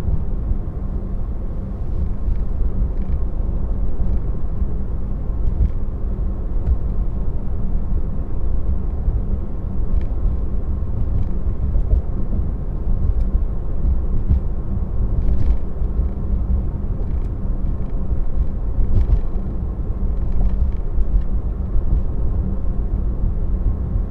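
Steady low road rumble inside a moving Tesla's cabin: tyre and road noise with no engine note, and a few faint scattered ticks.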